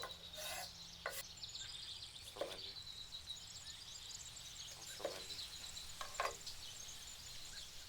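Knife cutting white onions into big chunks on a wooden board: a handful of separate cuts, a second or more apart, each a short knock.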